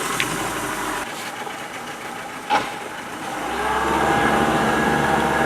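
Tour boat's engine idling, with one sharp knock about two and a half seconds in; about a second later the engine gets louder and runs steadily.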